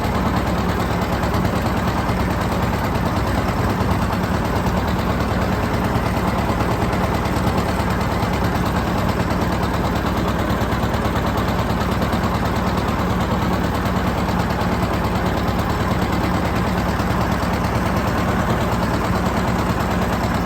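John Deere 730's two-cylinder engine running steadily with a rapid, even popping exhaust beat, working under load pulling a disk harrow.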